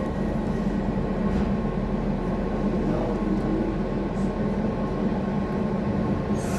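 Docklands Light Railway train running along the track, a steady rumble with a low hum, heard from inside the leading car.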